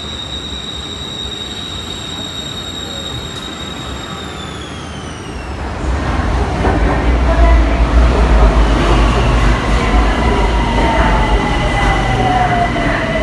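BTS Skytrain electric trains arriving at an elevated station. First a high electric-motor whine holds steady, then falls in pitch as the train slows. Then a second train comes in louder with a heavy running rumble, and its motor whine slides down in pitch as it brakes along the platform.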